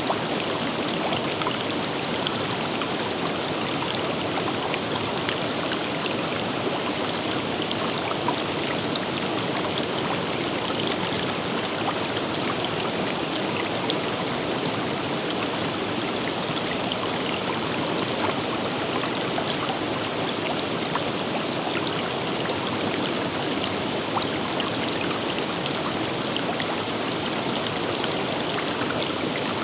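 A forest river flowing steadily over stones: a constant rushing of water with small splashes and trickles scattered through it.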